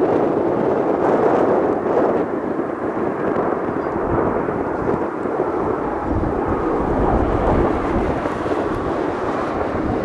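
Jet noise from Blue Impulse's Kawasaki T-4 jets in flight, a loud, steady rumble. Wind buffets the microphone from about the middle onward.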